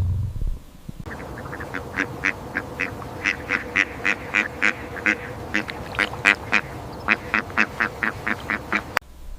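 Ducks quacking in a fast, steady series of short calls, about three or four a second, for around eight seconds, then cutting off abruptly near the end. A brief low rumble is heard at the very start.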